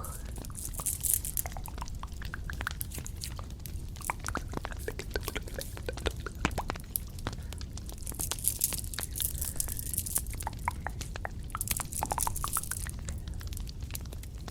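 Close-miked ASMR trigger sounds: many small clicks and taps, with three short bursts of high hissing rustle, about a second in, around the middle and near the end.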